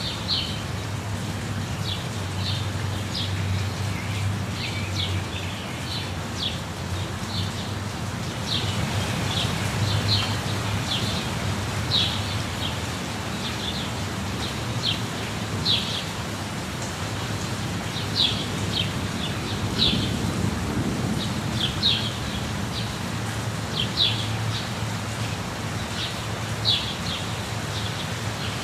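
A waterfall rushing steadily, with birds chirping over it in short, high, repeated notes that come every second or so.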